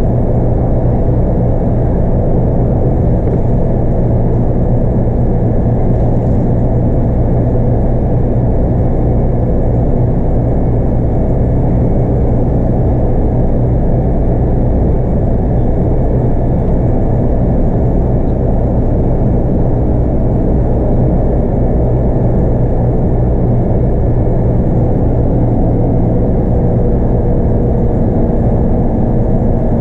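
Scania K230UB bus with a 5-cylinder 8.9-litre Scania DC9 diesel running at a steady pace, a constant low engine drone mixed with road noise, with no gear change or change in engine speed.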